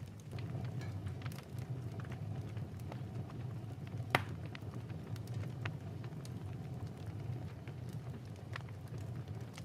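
Fireplace crackling, with scattered small pops over a steady low rumble and one louder pop about four seconds in.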